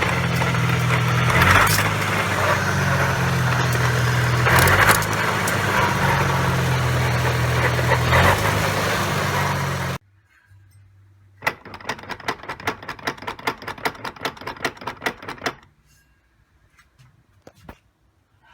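A Nissan Skyline GT-R (BNR32) on the road, with steady driving noise and the drivetrain rumble it makes at 50–60 km/h. The fault is suspected in the transmission, transfer case, propeller shaft or differential, with large backlash and a possibly worn propeller-shaft centre bearing. The driving noise cuts off suddenly about ten seconds in, and after a short gap a rapid, even run of clicks lasts about four seconds.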